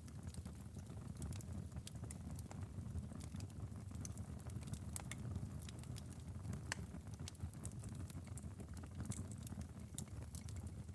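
Wood fire crackling in a fireplace: irregular sharp pops and snaps, a few a second, over a low steady rumble of burning.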